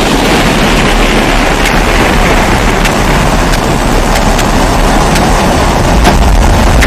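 Pressurized kerosene (Primus-type) stove burner humming steadily under pressure, with a few faint ticks scattered through it.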